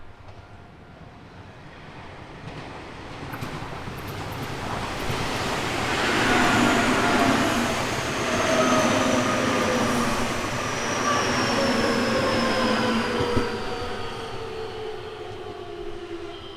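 A Nankai Main Line electric train passes close by. Its rumble and wheel noise build up, stay loud for several seconds, then fade. Several whining tones slide steadily down in pitch as it goes by.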